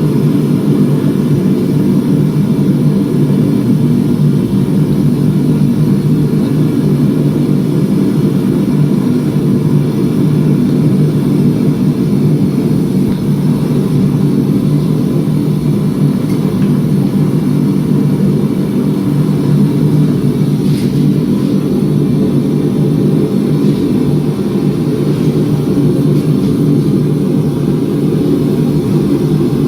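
Shop machinery running steadily and loudly, a constant low hum with no change in speed.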